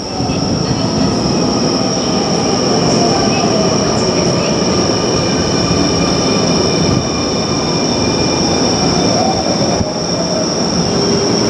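Keio Line electric train running on the track: a steady loud rumble with a continuous high-pitched whine over it.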